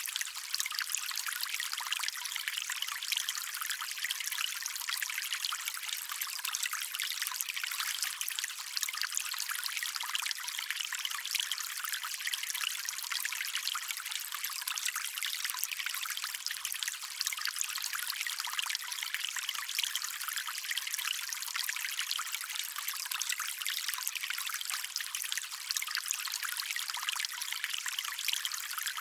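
Shallow stream water trickling and running steadily, a continuous bright splashing with little low rumble.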